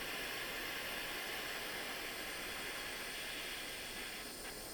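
Jeweller's soldering torch flame hissing steadily as it keeps a brass ring hot for the solder to flow into the joint.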